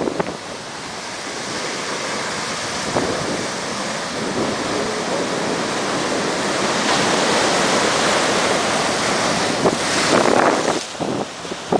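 Atlantic Ocean waves washing in with a steady rushing hiss that slowly swells, with wind buffeting the microphone in gusts near the end.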